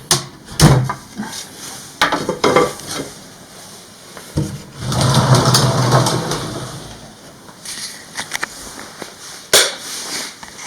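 Wooden hanok-style sliding doors being slid open, with a series of knocks and clacks in the first few seconds and a longer rumbling slide along the track about four to seven seconds in. Another knock comes near the end.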